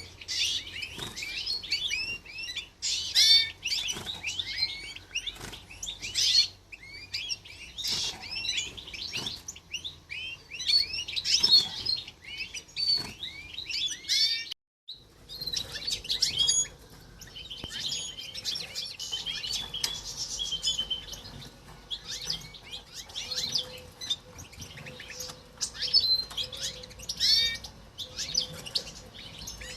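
Goldfinch × canary mule birds chirping and twittering in a cage, a dense run of quick high calls and short trills, with a brief dropout about halfway through.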